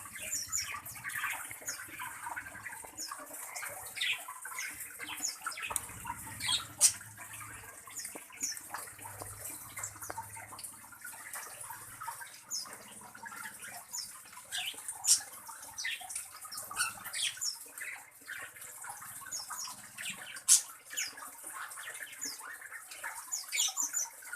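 Small birds giving short, high chirps and calls, scattered irregularly, over a steady hiss.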